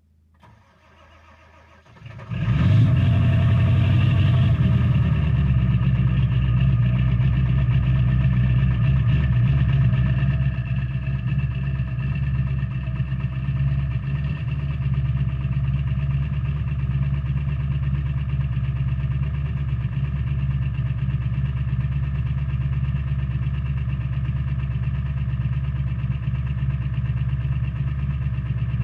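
Ford 7.3 Power Stroke V8 turbo-diesel cold start at −16 °C, heard at the right exhaust. It cranks briefly and catches about two seconds in, then runs at a steady idle that eases slightly in level about ten seconds in.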